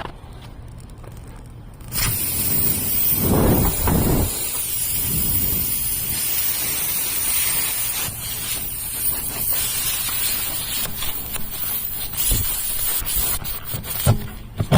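A steady, high hiss of pressurised gas escaping, starting suddenly about two seconds in and lasting about twelve seconds, with some low rumbling near the start.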